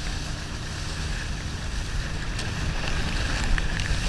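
Motorboat engine running low, a low rumble under wind and water noise, with a few faint ticks near the end.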